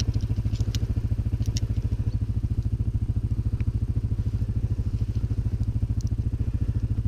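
CFMoto 500 ATV's single-cylinder engine idling steadily, with a few light clicks in the first second or so.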